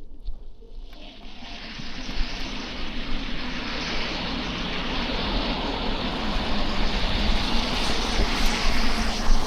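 Tyres hissing on a wet, slushy street, swelling over the first couple of seconds and then holding steady, with a low rumble underneath.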